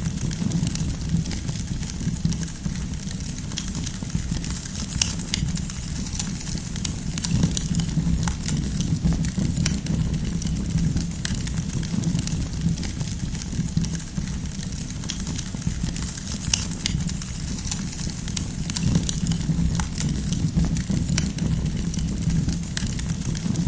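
Wood fire crackling and popping over a steady low rumble of flame, with frequent small sharp snaps scattered throughout.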